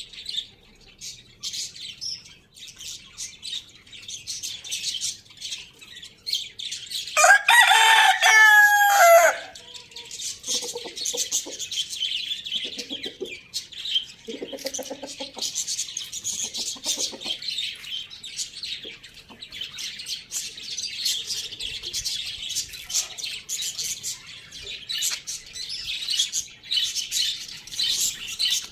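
A rooster crows once, loudly, about seven seconds in, a call lasting about two seconds, over continuous high chirping of small birds. A few low clucks follow the crow.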